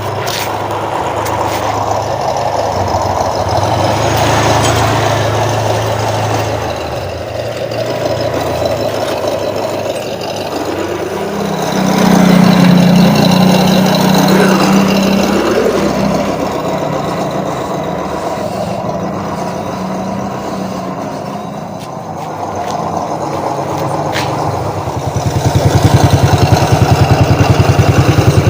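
Small RC crawler trucks' electric motors and gearboxes whining as they drive, the pitch rising and falling with the throttle. The whine grows much louder about halfway through and again near the end, where it has an even pulsing.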